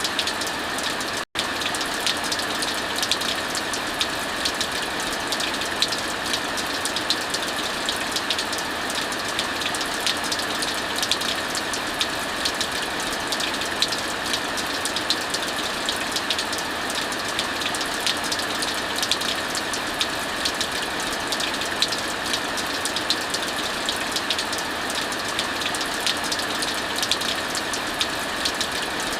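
Heavy rain falling steadily, mixed with a wood fire crackling and popping in many small sharp snaps. The sound cuts out for a split second just over a second in.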